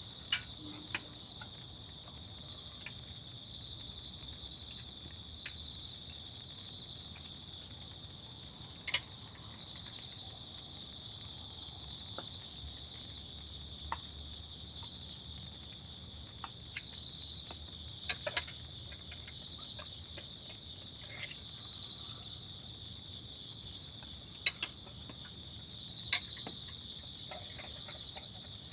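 Crickets or other insects chirping in a continuous pulsing trill. A few sharp clicks and knocks stand out now and then, loudest near the middle and toward the end.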